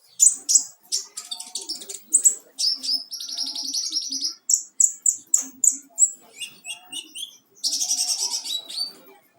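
Young sunbird singing: a varied run of high, sharp chirps and fast twittering trills, with a string of evenly spaced notes about halfway through and a dense trill near the end. It is an untrained bird still learning its song.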